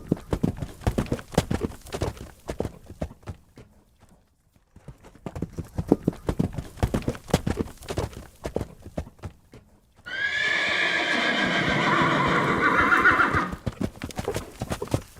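Horse galloping, its hoofbeats fading out about four seconds in and starting again. Then a loud neigh lasting about three and a half seconds, followed by more hoofbeats.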